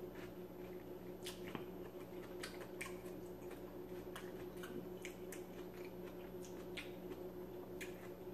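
Close-up chewing and wet mouth clicks, scattered soft smacks at uneven intervals, over a steady low hum.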